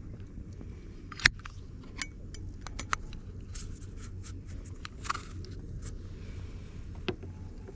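Several sharp clicks and clacks of objects being handled, the loudest about a second in, over a steady low rumble.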